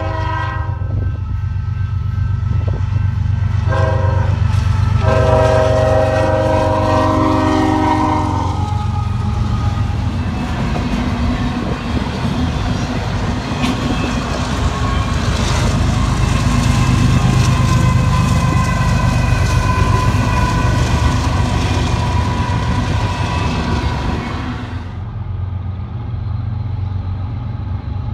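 Freight locomotive's air horn sounding several blasts, the last one long, ending about nine seconds in, then the steady rumble and clatter of a double-stack container train's wheels on the rails as it passes. The sound drops to a lower rumble near the end.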